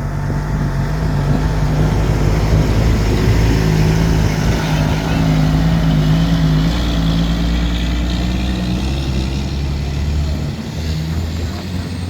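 A motor vehicle's engine running close by with a steady low hum, its pitch shifting slightly, dropping away about ten seconds in.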